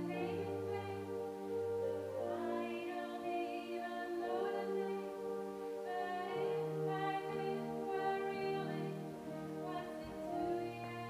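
Gospel choir singing slow, sustained chords without clear words, the chords changing every second or so over low held bass notes.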